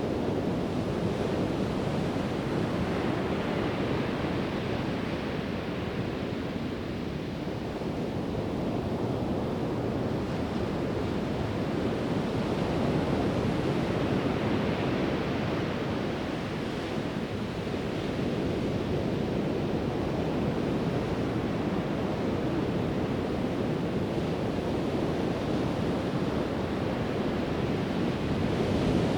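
Pacific Ocean surf breaking and washing up a sandy beach: a continuous rushing that swells and ebbs slowly, with wind on the microphone.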